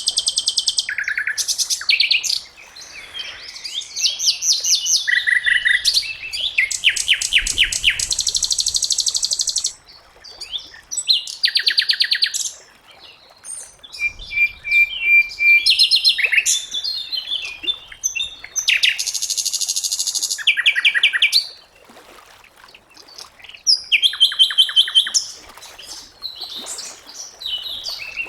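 Sikatan londo (a flycatcher) singing: a series of fast, high trills and rapidly repeated chip notes, each phrase one to three seconds long with short pauses between and the pattern changing from phrase to phrase.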